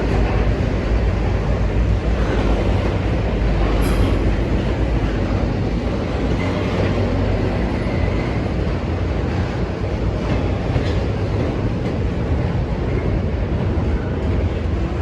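Norfolk Southern intermodal freight train rolling past. A steady, loud rumble of steel wheels on rail, with a sharp click about four seconds in and a faint wheel squeal partway through.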